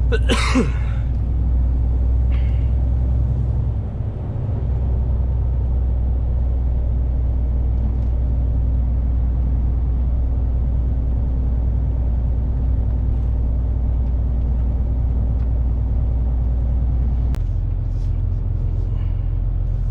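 Truck engine running steadily under way, a deep drone heard from inside the cab. Near the end there is a click and the engine note drops.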